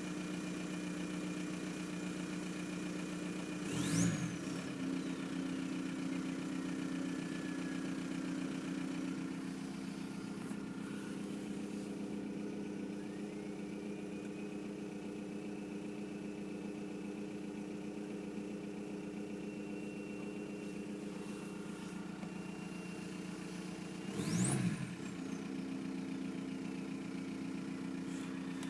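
1999 VW Golf Mk4 TDI's 1.9-litre AHF four-cylinder turbodiesel idling, with a rough, lumpy idle. It is blipped twice, about four seconds in and again near the end, and each blip brings a high turbo whistle that shoots up sharply and then glides down over a few seconds.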